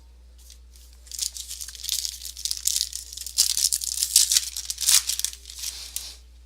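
A trading-card pack wrapper being torn open and crinkled, a dense crackling run of tearing and rustling that starts about a second in and stops near the end.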